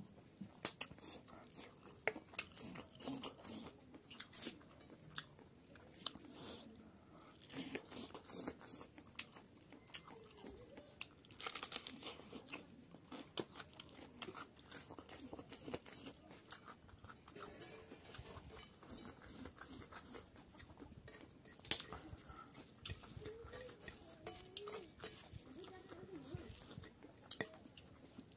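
Close-up eating sounds: a man chewing and crunching mouthfuls of rice and chicken curry eaten by hand, with irregular wet clicks and smacks of the mouth.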